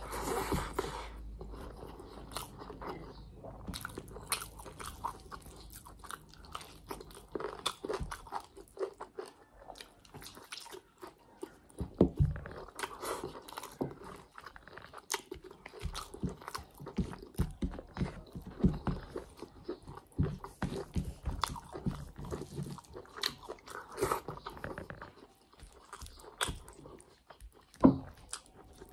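Close-miked chewing of a mouthful of rice with chicken liver and gizzards: continuous irregular wet clicks and crunches, with a sharper click about twelve seconds in and another near the end.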